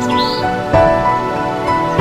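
Soft new-age background music of sustained chords, changing chord about a third of the way in, with a bird chirp near the start.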